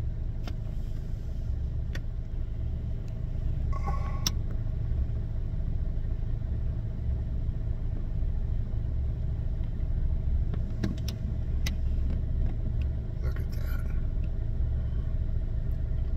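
Car engine idling, heard from inside the car: a steady low rumble with a faint steady hum over it and a few faint clicks.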